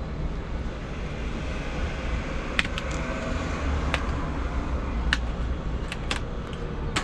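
Steady low rumble of wind and road noise while riding an electric bike, with a handful of short sharp clicks starting a little before halfway and more near the end.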